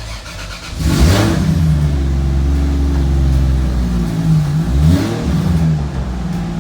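Turbocharged Toyota 2JZ-GE inline-six starting up: it catches about a second in, flares up, then runs at a steady fast idle, with the revs dipping and rising again briefly near five seconds before settling.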